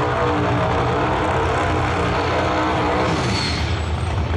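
Drag-racing car engines running loudly and steadily, with a drop in pitch about three seconds in.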